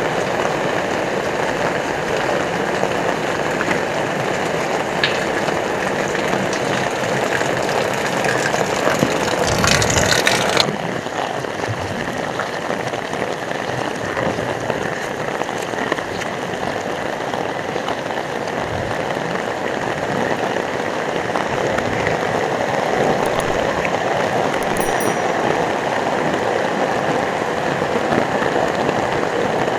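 Heavy rain pouring steadily, with a louder rush for a second or two about ten seconds in.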